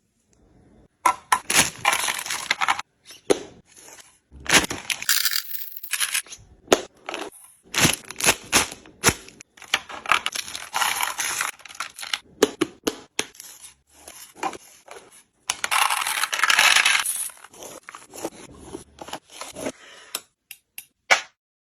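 Packaging crinkling in several longer stretches, with many sharp clicks, taps and clinks of small hard items being handled and set down.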